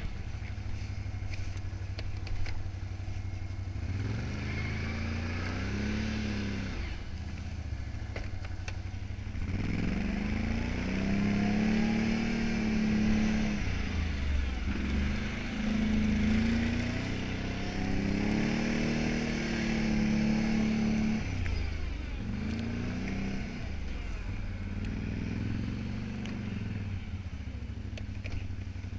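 Can-Am Outlander 570 XT ATV's V-twin engine running under load while plowing snow, revving up and dropping back again and again, with the hardest revving from about ten to twenty-one seconds in.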